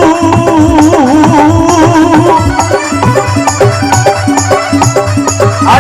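Folk devotional music: a melody with wavering, bending pitch over a steady hand-drum beat and rattling percussion.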